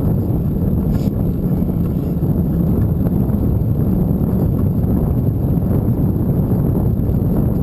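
Wind buffeting the microphone of a camera riding along on a bicycle: a steady, loud, low rumble.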